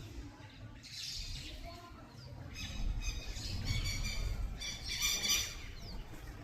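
Birds calling: a run of quick, repeated high calls about two and a half seconds in, lasting about three seconds, with fainter scattered calls around it.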